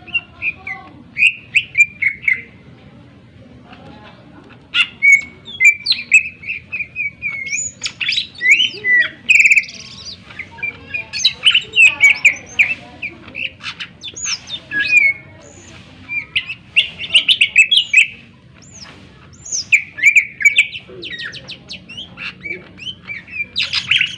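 Cucak ijo (greater green leafbird) singing loudly in rapid, varied bursts of sharp whistles, slurred notes and chattering trills, with short pauses between phrases.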